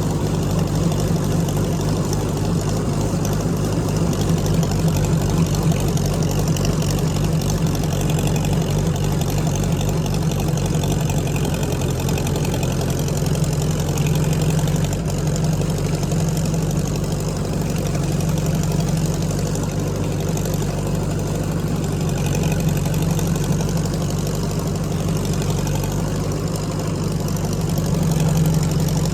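Tractor engine running steadily while brush hogging, its note shifting slightly about twelve seconds in.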